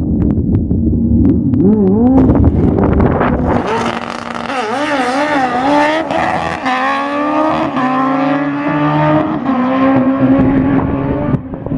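Drag racing engines revving in short rises and falls, then rising steadily in pitch as they accelerate.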